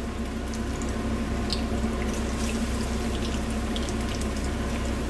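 Shredded green plantain frying in hot oil in a skillet: a steady sizzle with scattered small pops and crackles.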